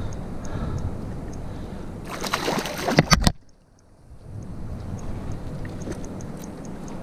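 Sea water sloshing against a kayak's hull, with scattered light ticks. A loud brief rush about two seconds in cuts off suddenly at about three seconds, and it goes quiet for a moment before the sloshing returns.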